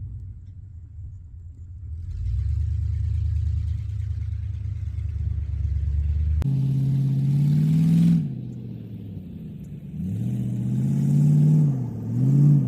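V8 engine idling with a low, steady rumble. After a cut about six seconds in, it is revved in two or three pulls, each rising in pitch and dropping back.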